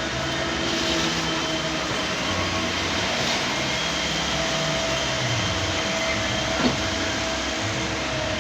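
Engine of heavy quarry machinery running steadily, with a single sharp knock about two-thirds of the way through.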